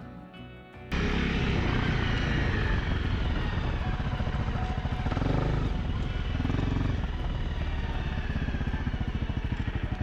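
Motorcycle engine running under way, mixed with wind rushing over the microphone; it cuts in suddenly about a second in, and the engine's firing pulses stand out more near the end.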